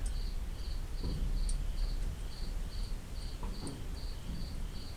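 A cricket chirping steadily, about two short high chirps a second, over a low background rumble with a couple of faint clicks.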